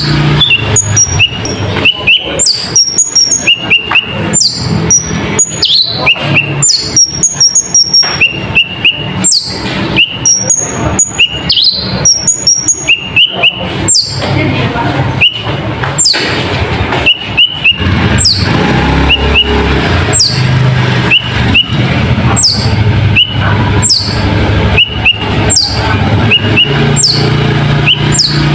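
A brown-throated sunbird (konin) singing loudly and non-stop: a rapid string of sharp, high chirps and quick falling whistled sweeps, repeated over and over. It is presented as a konin trained with the calls of another bird, used as a lure call.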